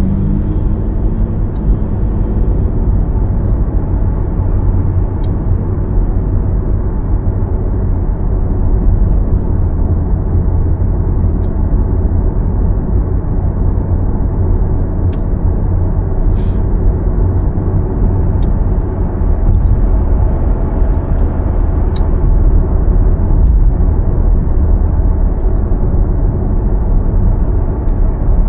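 Steady low rumble of a car on the move: road and tyre noise with engine hum, unbroken throughout, with faint sharp ticks now and then.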